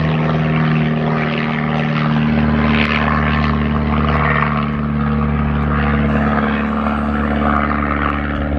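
Airplane flying low overhead: a loud, steady engine drone with a rushing noise above it.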